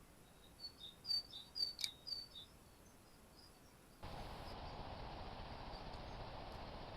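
Small garden bird giving a quick run of short, high chirps, with a few faint clicks among them. About four seconds in, a steady hiss starts abruptly.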